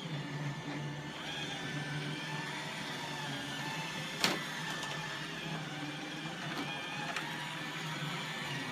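iRobot Roomba 880 robot vacuum running on carpet: a steady motor hum and brush whir, with one sharp knock about four seconds in.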